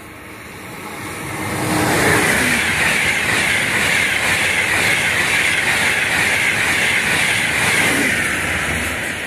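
Frecciarossa high-speed electric train passing through at speed without stopping. A rushing noise builds over the first two seconds as it nears, then holds as a loud, steady rush of wheels on rail and air, easing slightly near the end.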